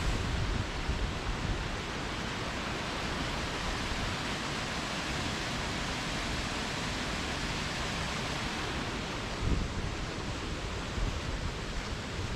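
Waterfall rushing steadily, with gusty wind rumbling on the microphone.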